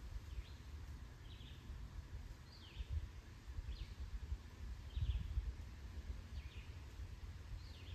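A bird repeating a short, falling chirp about once a second, over an uneven low rumble on the microphone.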